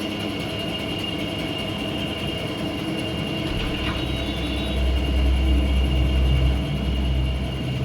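CNC wood router running, with a steady high whine; a low rumble comes in about halfway and grows louder.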